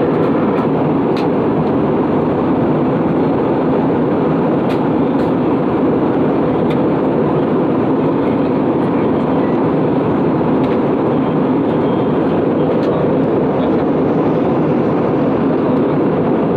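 Steady rumble inside the cabin of an Airbus A320-232 airliner, with a few faint light clicks now and then.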